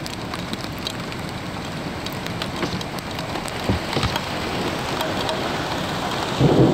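Heavy rain falling steadily, with scattered ticks of drops striking close by and a couple of dull thumps about four seconds in. Near the end a loud low rumble of thunder sets in.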